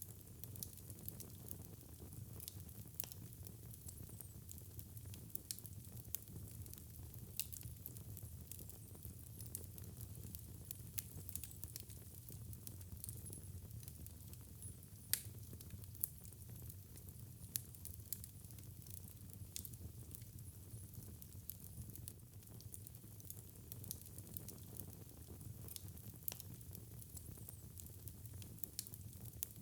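Wood fire burning in a fireplace: a steady low rumble of flames with frequent sharp crackles and pops, one louder pop about halfway through.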